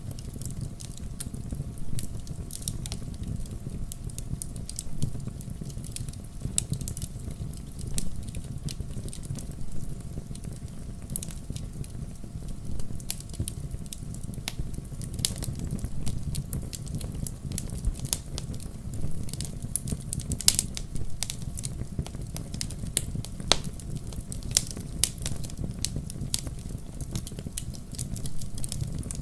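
Wood campfire crackling: irregular sharp pops and snaps, a few louder ones, over a steady low rumble of the burning fire.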